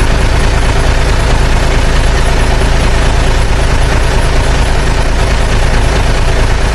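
Loud, steady rumble of a heavy engine running, like a truck or tractor idling, with no change in pitch.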